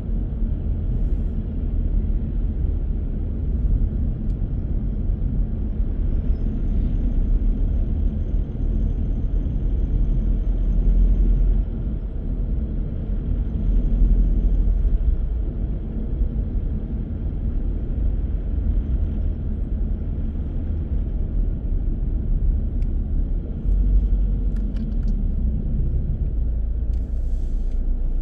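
A car driving along, a steady low rumble of tyres and engine that swells and eases a little with the road.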